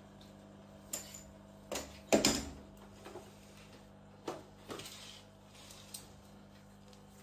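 A string of short knocks and clinks, about seven in all, the loudest a little over two seconds in, over a steady low hum.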